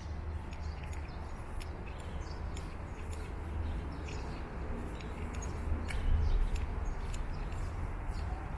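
Small birds chirping in quick, scattered short calls over a steady low rumble.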